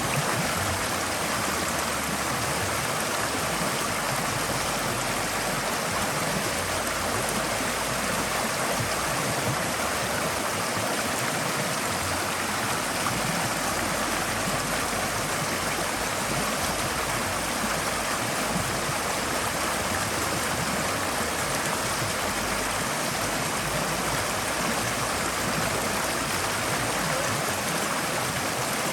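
Forest stream flowing steadily, a continuous rush of water over stones with light gurgling.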